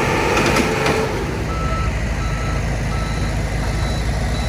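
Heavy machine's reversing alarm beeping, a short tone repeated about every 0.7 seconds, starting about a second and a half in, over a steadily running diesel engine.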